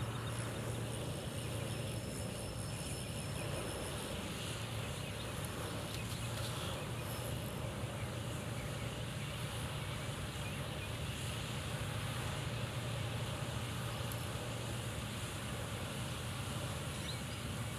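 Steady low rumble of wind on the microphone, with no distinct events, and a faint thin high tone in the first few seconds.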